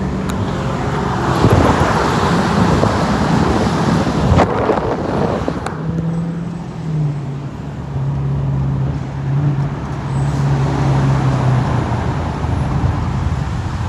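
Car engine running hard, loud and noisy for about four seconds, then dropping to a steady low drone.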